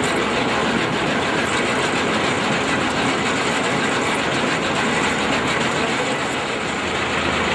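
SAME tractor-based 4WD Shamsher combine harvester running steadily, its engine and working machinery making a loud, even mechanical noise.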